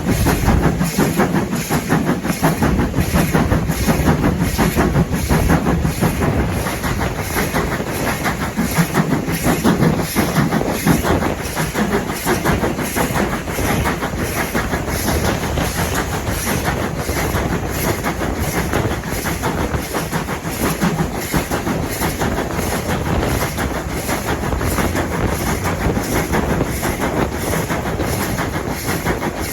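A train running along the rails, with a steady rumble and an even, repeating clickety-clack of its wheels over the rail joints.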